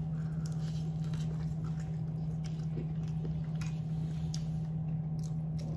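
Someone chewing food, with a few faint clicks of cutlery over a steady low hum.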